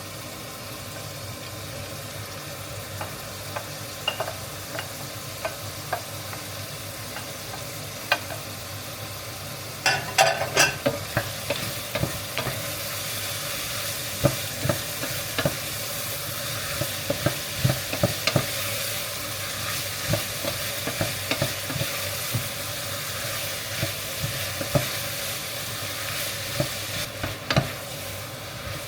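Food frying and sizzling in a pot while it is stirred, with frequent short clicks and scrapes of the utensil against the pot. The sizzle grows louder about ten seconds in.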